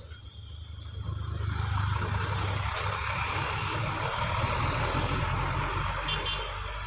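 A truck driving close by: a low engine rumble with tyre and road noise that swells about a second in, holds, and eases off near the end. A brief run of faint high beeps comes about six seconds in.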